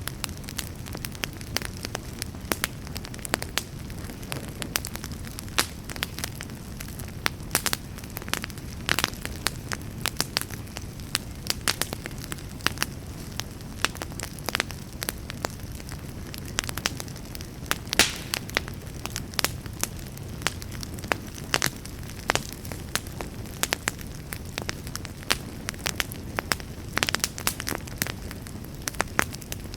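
Wood fire burning in a fireplace: a steady low rumble of flames with frequent irregular crackles and pops, a few sharper ones standing out.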